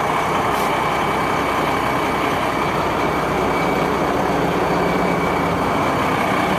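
The 1994 Ford L8000's 8.3-litre Cummins diesel engine running steadily at idle, with a faint steady high whine over it.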